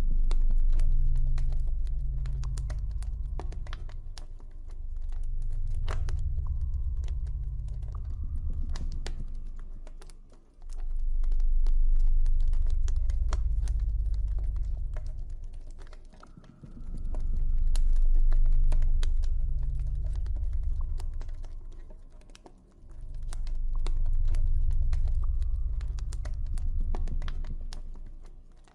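Campfire crackling, with many small irregular pops and snaps, over a deep low ambient drone that swells up and fades away about every six seconds.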